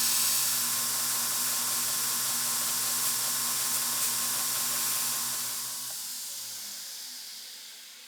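Steady hissing with a low hum beneath it, fading away over the last few seconds.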